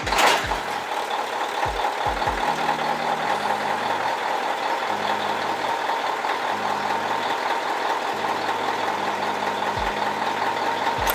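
Steady drone of a MAZ-5440 truck under way: engine and road noise as a dense, even rush with a strong hum in the middle of the range. There is a loud burst in the first half-second.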